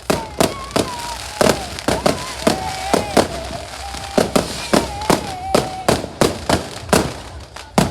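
Fireworks going off in a rapid string of about twenty sharp bangs, two or three a second, with a short pause around the middle.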